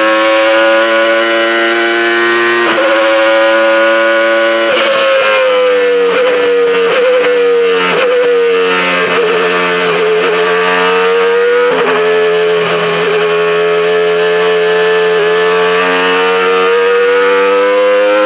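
The 3.5-litre Renault RS5 V10 of the Renault Espace F1 running at high revs on track, its high-pitched note holding steady with brief breaks every few seconds. The pitch sags slowly in the middle and climbs again.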